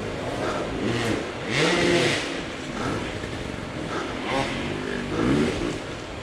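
Off-road motorcycle engine revving up and down as the rider works the throttle on the trail, its pitch rising and falling twice, loudest about two seconds in.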